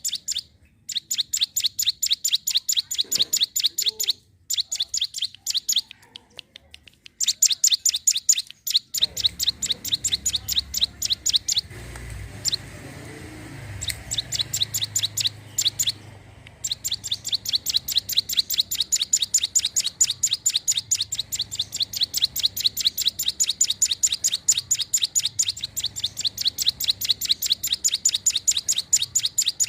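Ciblek gunung, a prinia, singing a fast series of high, sharp chips, several a second, in long runs broken by a few short pauses.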